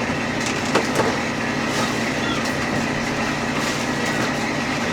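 Steady machine hum, with a few sharp knocks just under a second in.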